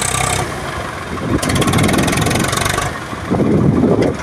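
Tractor engine running, its revs rising and falling.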